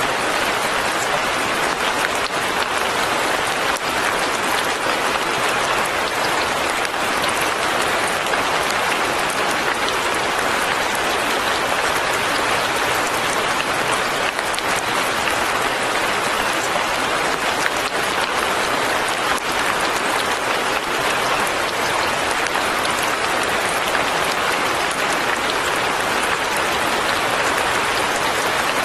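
Light rain falling steadily on leaves and a cabin roof: an even, dense patter that does not change.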